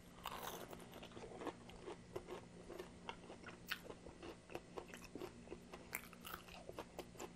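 Close-up chewing of a battered fried chicken tender: a steady run of small crisp crackles from the coating, with a fresh bite about six seconds in.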